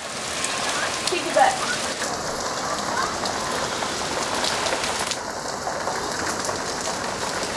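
Heavy rain pouring down steadily, an even hiss of drops. About a second and a half in, a short voice sound rises briefly above it.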